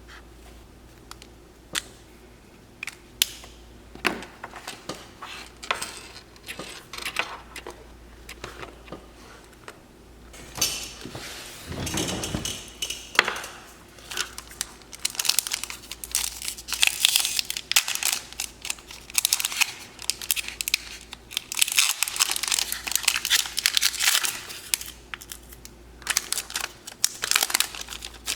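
Crinkling and tearing of a foil Lorcana trading-card booster pack being handled and opened close to the microphone. Sparse taps and rustles at first, then dense, steady crinkling from about halfway through.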